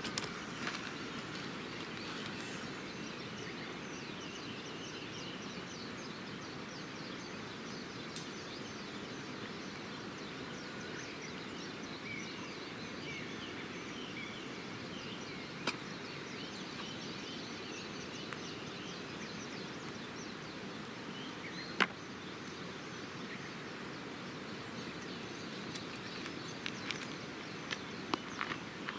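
Wood campfire burning, with occasional sharp pops and crackles, a few of them close together near the end, over a steady outdoor background hiss. Faint bird chirps.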